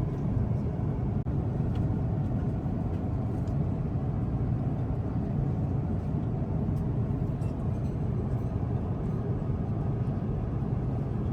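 Steady low rumble of cabin noise inside an Airbus A350-1000 in flight: airflow and engine noise heard from the seat.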